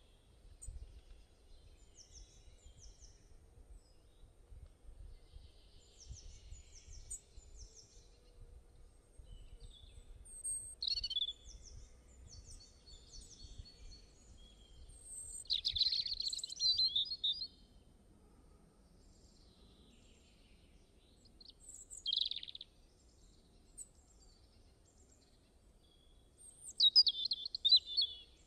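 Songbirds singing and chirping in short, high-pitched phrases, with louder bursts of song about halfway through and near the end, over a faint low rumble.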